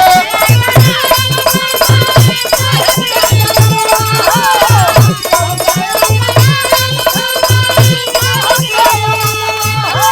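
Instrumental break in a Bhojpuri birha folk song, with no singing: a steady, rhythmic drum beat under held melody notes and jingling percussion strokes.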